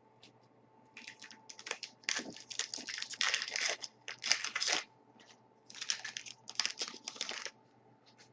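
Trading-card pack wrapper crinkling and tearing as a pack is opened and the cards handled, in a run of short rustling bursts that stop shortly before the end.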